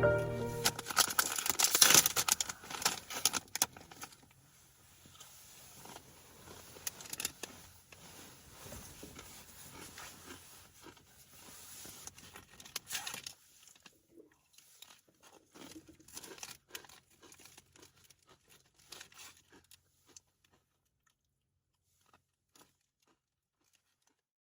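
Background music fading out, then irregular crackling and crunching clicks that thin out and stop about twenty seconds in.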